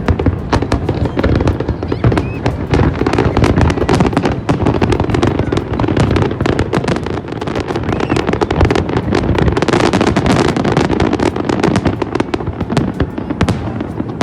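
Fireworks display going off in a dense, continuous barrage of rapid bangs and crackles, with a burst of extra crackling about ten seconds in.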